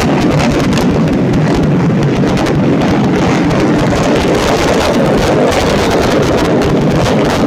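A pack of tuned 130cc underbone racing motorcycles running at high revs: a loud, rough, unbroken engine roar with a fast flutter.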